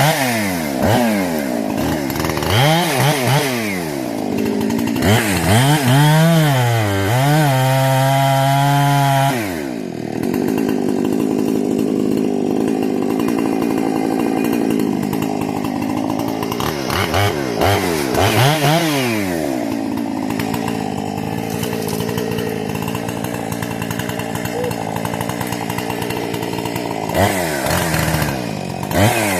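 Husqvarna 460 two-stroke chainsaw with a modified carburettor and muffler, revved up and let fall back again and again, held at high revs for a few seconds before dropping off sharply about nine seconds in, then running more steadily before more revving near the end.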